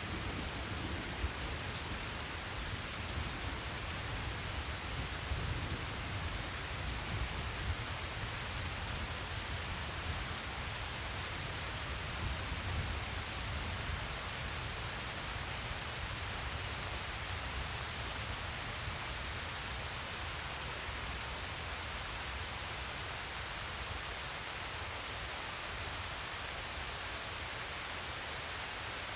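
Steady rain falling, an even hiss, with a low rumble underneath during the first half and a few faint ticks of drops.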